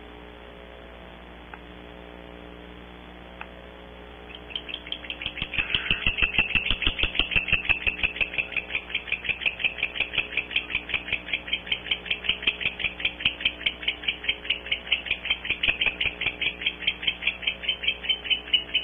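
Barn owls twittering: a long, rapid run of short high chittering notes, several a second. It starts about four seconds in and carries on without a break, over a steady low electrical hum from the nest camera.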